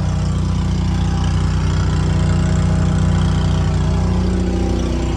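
Large diesel engine idling steadily, with a deep, even rumble.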